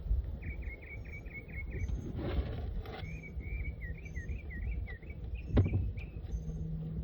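A songbird singing outdoors: a run of quick repeated chirps, then a warbling phrase. Beneath it are low rumbling handling noise, a short scraping rustle about a third of the way in, a single sharp knock a little before the end, and a low steady hum that comes in about halfway.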